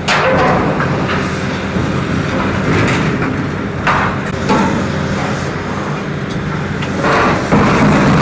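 Diesel heavy machinery running steadily, with metal clanks and knocks at irregular moments, from demolition work.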